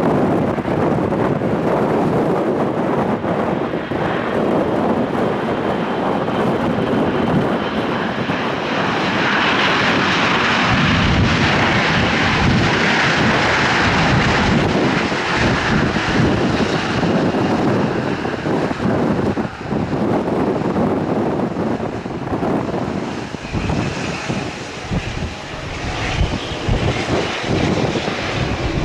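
Airliner's engines passing close by, a loud noise that swells to a peak about halfway through with a faint whine in it, then slowly fades.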